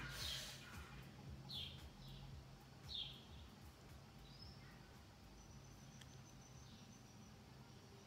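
Faint bird chirps: a few short, high, falling chirps at irregular intervals over a quiet room, with a thin high steady note for a couple of seconds around the middle.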